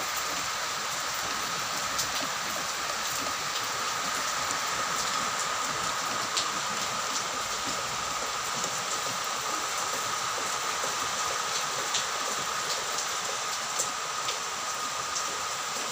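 Heavy rain pouring steadily, with scattered drops ticking close by and a thin steady tone running underneath.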